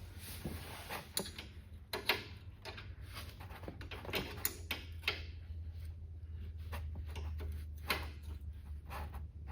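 A wrench clinking and clicking on bolts of a zero-turn mower as they are checked for tightness, in sharp irregular knocks over a steady low hum.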